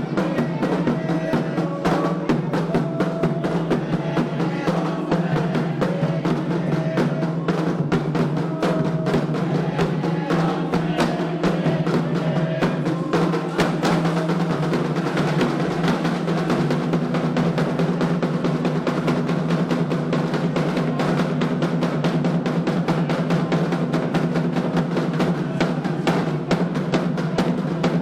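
Candomblé ritual drumming: atabaque hand drums played in a fast, dense, unbroken rhythm.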